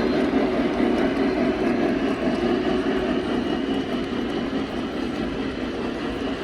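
Steady background noise of a busy indoor exhibition hall: a dull, even rumble with no clear voices or sharp sounds standing out.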